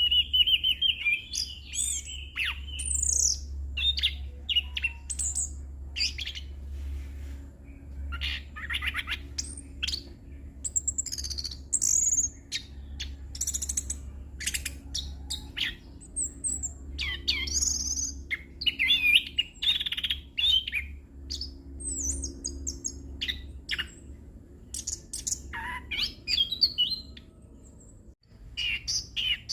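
Orange-headed thrush singing a long, continuous, varied rolling song of quick whistled and chattering phrases packed with imitated calls, with a brief pause near the end. A steady low hum runs beneath it.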